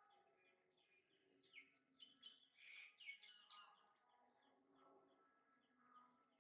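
Faint, high-pitched bird chirps, a quick run of short falling notes about two to three and a half seconds in, over quiet outdoor background.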